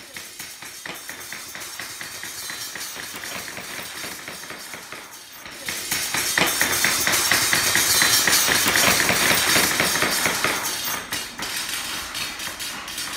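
Music made of dense, rapid percussive tapping and rattling. It grows louder about five seconds in and eases off near the end.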